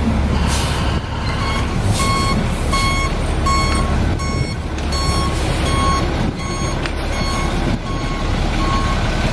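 Box truck's reversing alarm beeping steadily, about two beeps a second, over the low rumble of its idling engine as the truck backs up.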